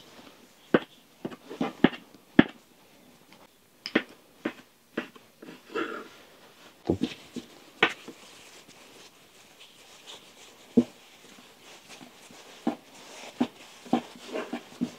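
Irregular sharp clicks and knocks, a dozen or so spread unevenly, a few of them louder, against a low background.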